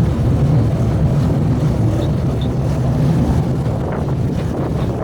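Open-air tourist rail cart running along the track: a steady low engine and running drone, with wind buffeting the microphone and a few faint light clicks.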